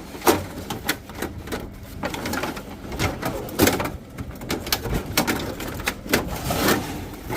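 Irregular clatter of knocks and clinks, typical of scrap metal being handled and sorted.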